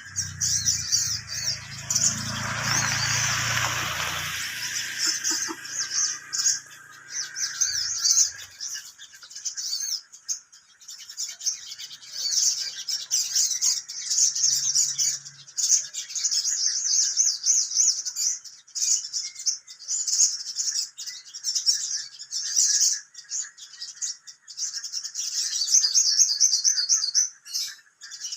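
Sogon bird call used as a lure: rapid, high-pitched chirping and trilling in long, nearly continuous runs broken by short pauses. A rushing noise with a low hum sits under it for the first few seconds.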